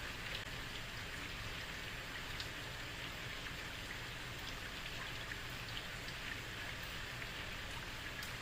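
Heavy rain falling steadily on a street, a dense even hiss dotted with the sharp patter of individual drops hitting hard surfaces.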